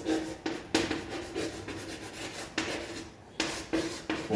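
Writing by hand: a run of short scratchy strokes with brief pauses between them.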